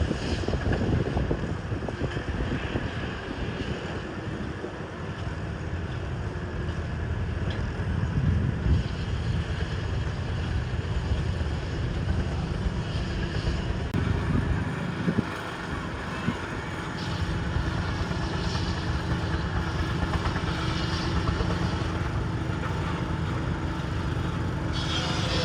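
A garden tractor's engine running steadily, with wind rumbling on the microphone.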